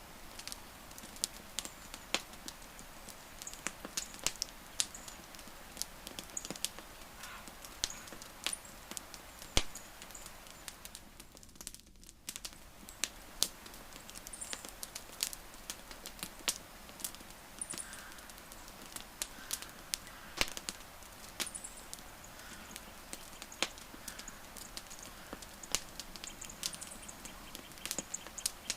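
Wood fire crackling: irregular sharp pops and snaps of varying loudness over a soft steady hiss, with one louder pop about ten seconds in. The sound dips briefly about twelve seconds in.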